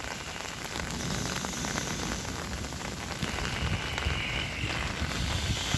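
Hailstones pelting down in a severe hailstorm: a dense, steady clatter of many small hits. A faint, steady high tone joins about three seconds in.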